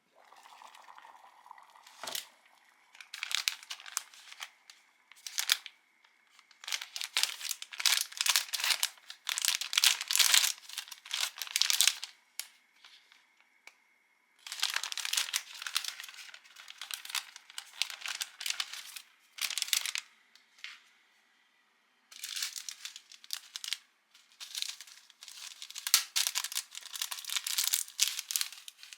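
Crinkly plastic packaging of instant food being handled and torn open: bursts of crinkling and tearing with short pauses between.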